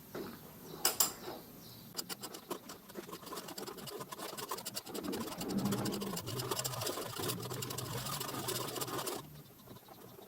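Hand ratchet wrench clicking rapidly as a bolt on the moped's front fork is turned, with a single sharp click about a second in and a long run of fast clicking from about two seconds in until it stops near the end.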